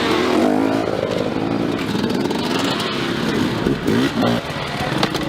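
Dirt bike engines revving hard, their pitch rising and falling repeatedly as the throttle is worked on and off.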